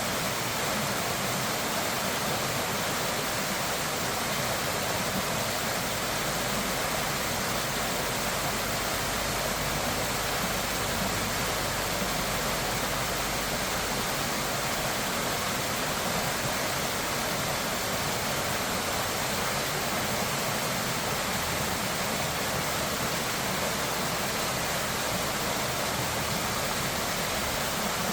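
Steady, unbroken rush of fast-flowing water, with no rise, fall or distinct events.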